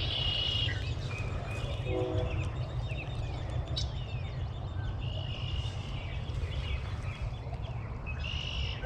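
Birds chirping and calling over a steady low rumble, with a distant train horn sounding a short chord of several tones about two seconds in.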